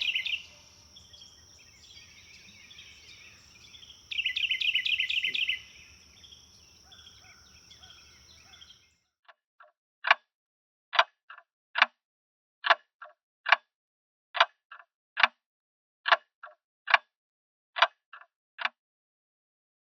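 Faint outdoor ambience with birds chirping and a short trill, with a steady high whine, which cuts out after about nine seconds. Then a run of sharp ticks, under a second apart in uneven groups, against silence.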